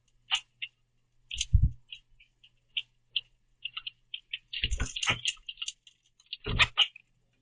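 Common grackles working a platform feeder: a scatter of short, sharp taps and clicks as beaks peck at sunflower seeds, with heavier thumps about a second and a half in, around five seconds and near six and a half seconds as birds land or hop on the platform.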